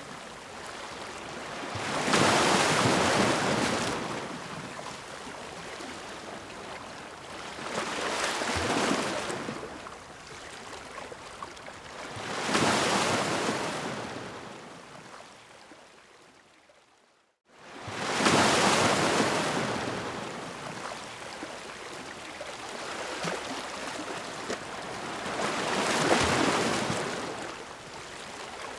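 Sea waves crashing against rocks: five surges of breaking surf a few seconds apart, each swelling and then washing away. Partway through, the sound fades almost to nothing for about a second before the next wave breaks.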